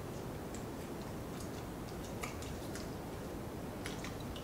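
People chewing fried food, seasoned fries and chicken wings: scattered faint crunches and mouth clicks over a steady low hiss.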